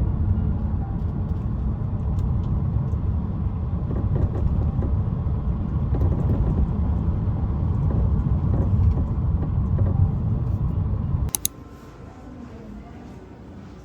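Low, steady rumble of a running vehicle, which cuts off abruptly with a click about eleven seconds in, leaving a much quieter background.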